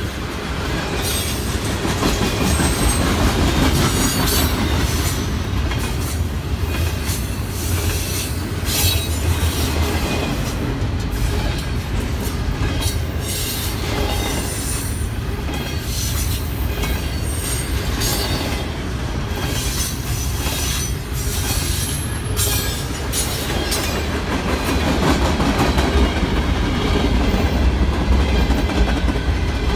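Freight cars of a long mixed train rolling past close by: a steady heavy rumble of steel wheels on rail, with rapid clicking over the rail joints and brief high wheel squeals. The rumble grows louder near the end.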